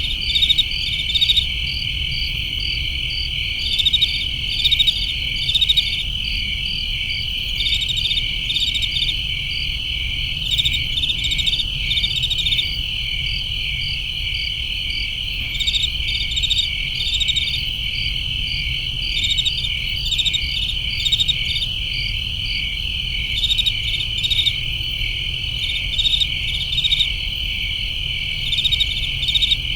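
Crickets chirping at night: a steady high trill with louder pulsed chirps standing out in short clusters every second or two, over a faint low rumble.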